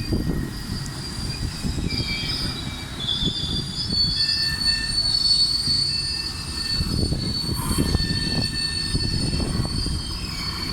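Train wheels squealing on the rails: several shrill, high-pitched metal-on-metal tones that shift and overlap over a continuous low rumble of the rolling train, which swells louder about two-thirds of the way through.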